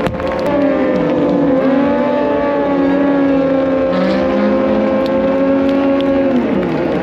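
MotoGP racing motorcycles running at high revs on the circuit, several engine notes overlapping and holding steady. The pitch drops away near the end.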